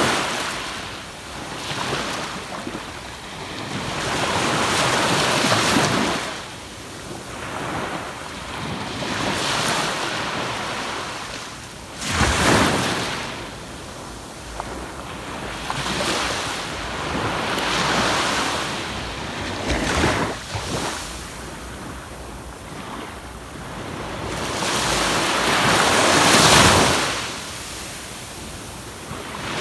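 Ocean surf breaking and washing up on a sandy beach, surging one wave after another every few seconds, with a sudden crash about twelve seconds in and the loudest surge near the end. Wind rumbles on the microphone.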